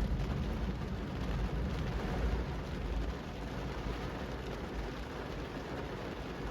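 Steady rain falling on a street, with a deep low rumble underneath that eases off about three seconds in.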